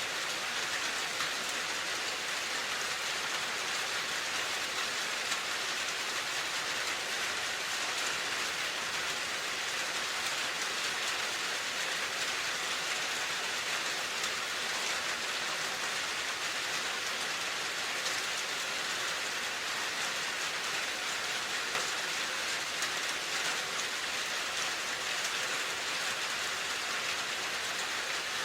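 Steady rain falling, an even hiss with the fine patter of drops on surfaces.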